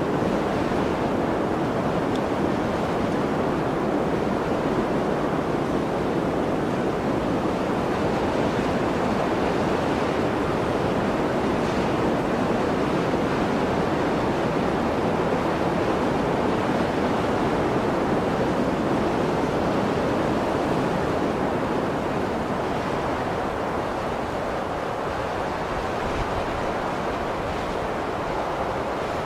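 Steady blizzard wind, a dense even rushing noise that eases slightly about three-quarters of the way through.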